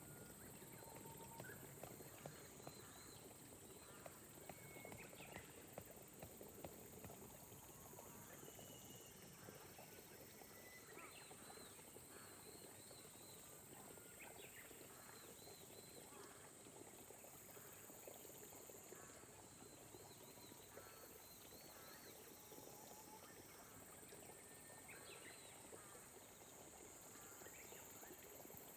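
Faint rice-paddy nature ambience: a steady high-pitched insect chorus with scattered short chirping calls from frogs or birds, over a soft hiss of light rain.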